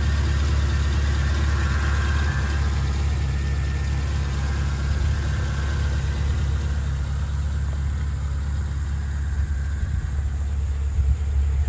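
A 2011 Chevrolet Camaro SS's 6.2-litre V8, fitted with a cold air intake, idling steadily under the open hood.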